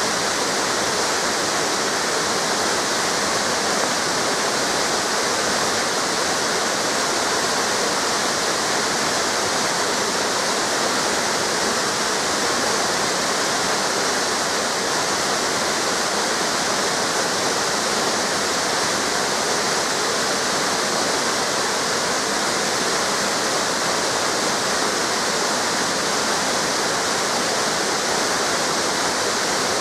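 Waterfall cascades: a steady rush of falling water, even and unbroken, with most of its energy in a high hiss.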